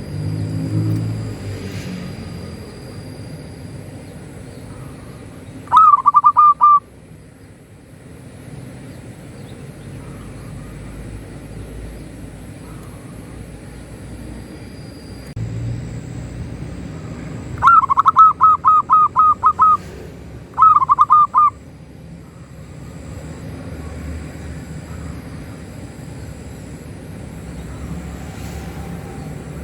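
Local zebra dove (perkutut) singing: three runs of quick, clipped cooing notes, a short one about six seconds in, then a longer run of about nine notes and a short one together near 18–21 seconds, over a steady low rumble.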